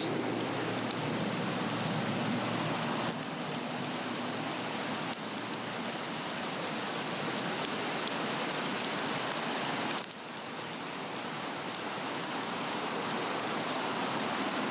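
Steady rushing of a nearby stream, with a few faint crackles from a Swedish-torch campfire.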